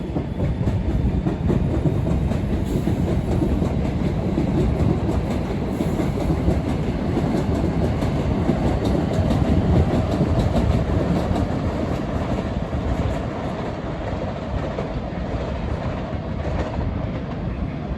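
A passenger train running past on the rails, a steady rumble with wheels clicking over the rail joints, loudest around the middle and easing off toward the end.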